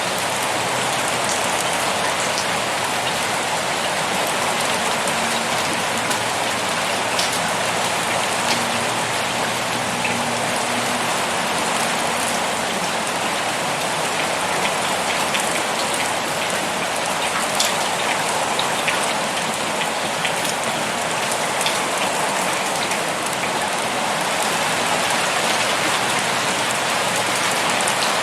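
Heavy rain pouring steadily, an even hiss with the sharp ticks of individual drops hitting a surface scattered through it.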